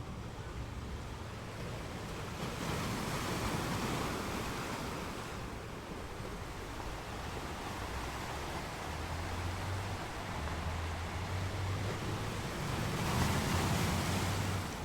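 Sea waves breaking on a rocky beach: a steady wash of surf, with one wave surging in about two or three seconds in and a louder one near the end.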